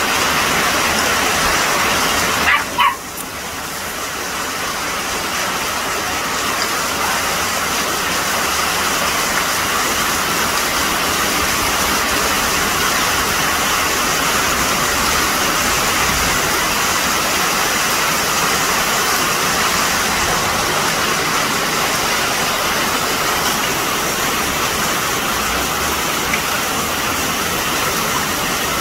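Heavy rain falling in a steady, even rush. About three seconds in there is one short, sharp high-pitched sound, then the rush drops for a moment.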